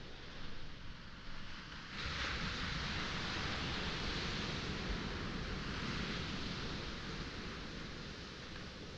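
Sea waves on a pebble shore: a wave breaks about two seconds in and its hissing wash runs up over the stones for several seconds before easing off.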